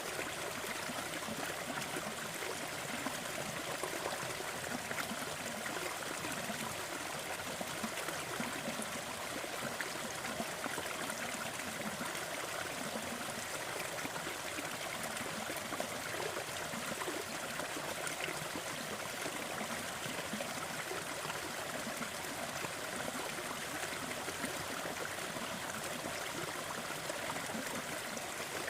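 Steady rushing noise from a crackling fireplace blended with brown noise, with faint scattered crackles and no change in level.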